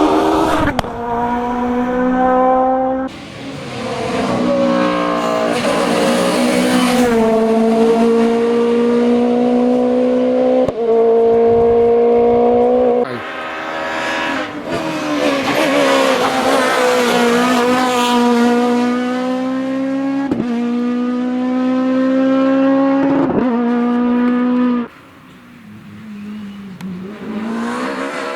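Super 1600 rally cars' naturally aspirated 1.6-litre four-cylinder engines revving hard on a stage. The loud, high engine note climbs and drops abruptly several times, and briefly quietens near the end.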